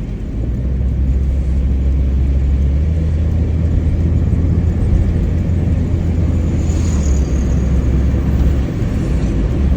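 Steady low drone of a Mitsubishi Lancer being driven on a wet road, engine and road noise heard from inside the cabin, easing briefly near the end.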